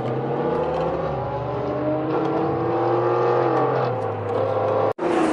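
Car engine running at low revs, its pitch drifting gently up and down. The sound cuts out abruptly for a moment near the end.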